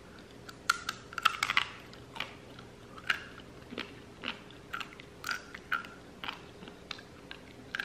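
A person chewing a crunchy dehydrated beef liver crisp: irregular crunches, a quick cluster about a second in, then slower, scattered crunches.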